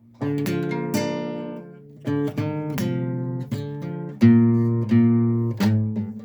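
Acoustic guitar strummed in chords, about ten separate strums each left to ring out and fade before the next.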